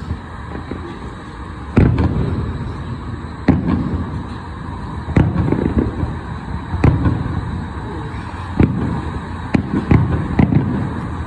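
A fireworks display: a run of sharp shell bursts about every one and a half to two seconds, some in quick pairs, with a low rumble between them.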